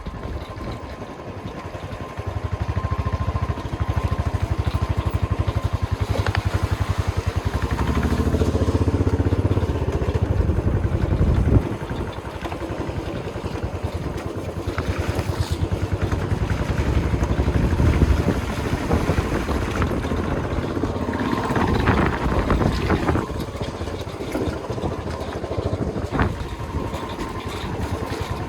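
A vehicle being driven: engine and road noise with a heavy, uneven low rumble that swells and eases over the stretch.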